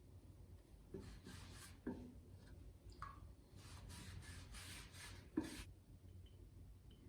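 Short scraping strokes of a hand tool on wood, a couple about a second in and a run of about five from roughly three and a half seconds, with a few light knocks of wood, the loudest just after five seconds.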